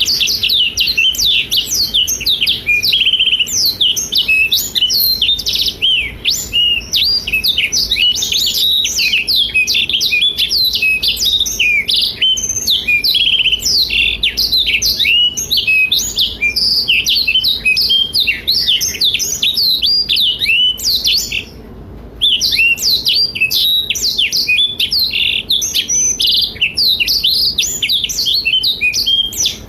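A blackthroat (black-throated canary) singing a long, continuous song of fast, high twittering notes and rapid up-and-down sweeps, with one brief pause about 21 seconds in.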